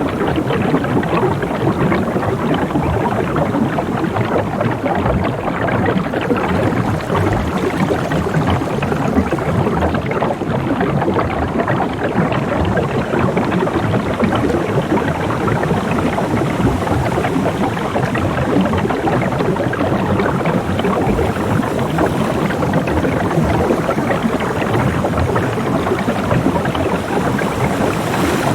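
Steady, dense splashing and rushing of water.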